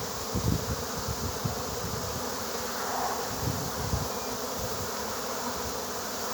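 A swarm of honeybees buzzing steadily around and into a hive as they settle in, many of them fanning at the entrance.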